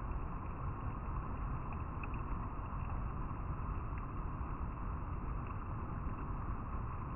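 River water flowing over rocks: a steady rushing.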